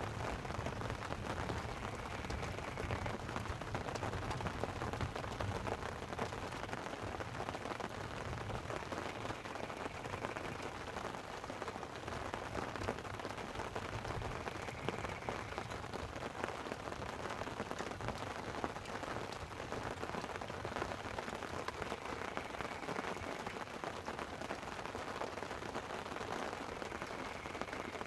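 Light rain pattering steadily on a tent, with low rolling thunder rumbling at times, strongest in the first few seconds and again about halfway through.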